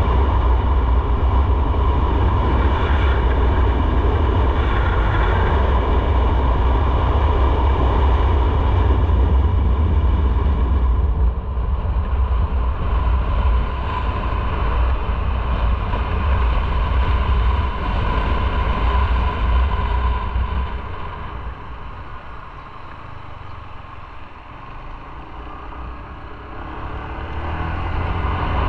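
Motorcycle on the move, heard from the rider's own camera: a steady rumble of engine and road noise. It eases slightly about a third of the way in, grows quieter for several seconds near the end, then builds again as the bike picks up speed.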